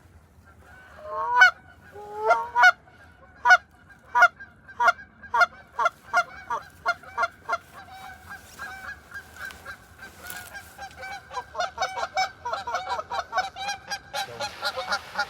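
Geese honking: a few loud single honks in the first few seconds, then many overlapping honks from a flock that grow denser and louder toward the end.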